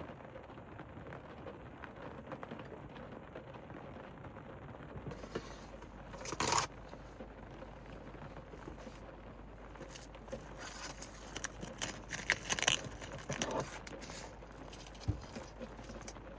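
Steady rain pattering on a camper van's roof, heard from inside. Sharp crinkling and rustling of something being handled breaks through about six seconds in, then comes again in a run of bursts a little later.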